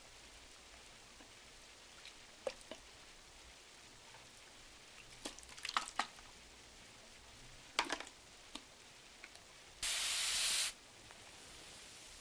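Soft rain hissing steadily, with scattered pops and clicks of a wood-burning fire. Near the end comes a single papery swish of a page turning, about a second long and the loudest sound.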